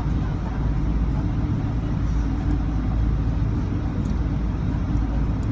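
Steady low rumble inside the passenger cabin of a Boeing 777-200ER on the ground before takeoff, its engines running, with a few faint cabin rattles.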